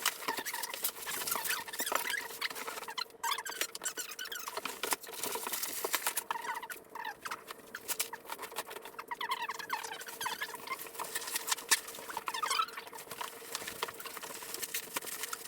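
Packing material being worked into a cardboard box: packing foam squeaking as it rubs against cardboard, with rustling and light taps.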